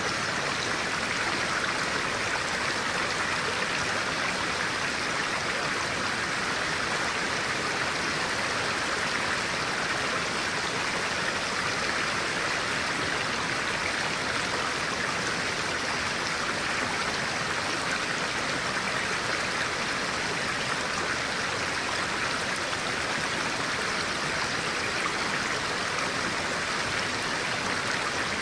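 A clear-water stream flowing steadily: an even, unbroken rush of water.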